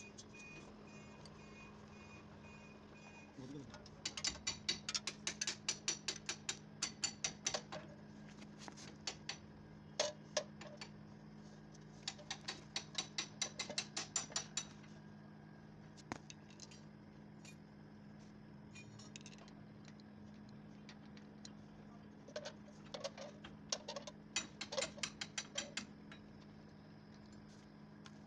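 Ratchet wrench clicking in three runs of a few seconds each, at about four or five clicks a second, over a steady low hum.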